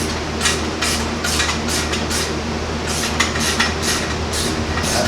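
Repeated short scraping strokes, a few a second and unevenly spaced, over a steady low hum of shop machinery.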